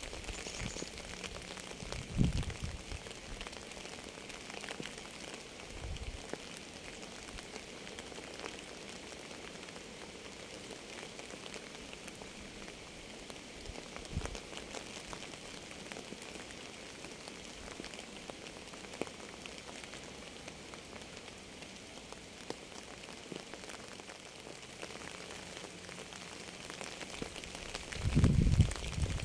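Steady rain falling and pattering on a surface, with scattered sharper drops and a few short low thumps, the loudest cluster near the end.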